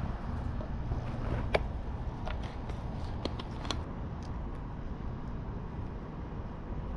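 A few faint clicks and taps from hand work on a pit bike's brake master cylinder as brake fluid goes in, over a steady low background rumble. The clicks fall mostly in the first half.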